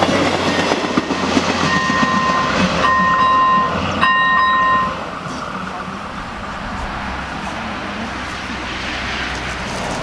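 A diesel train rumbling over a single-track level crossing with wheel clatter. The crossing's ZV-01 electronic warning bell sounds in roughly second-long pulses and stops about five seconds in, leaving the train's steady running noise.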